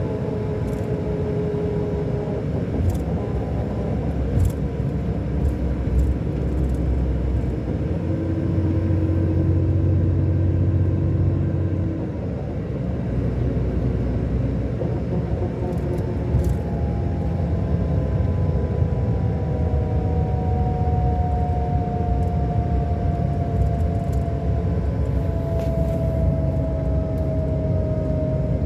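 Scania K400 coach's 13-litre straight-six diesel engine running under way, a steady low rumble with tones that slowly glide up and down. It grows louder for a few seconds about eight seconds in, then eases back, with a few faint rattling ticks.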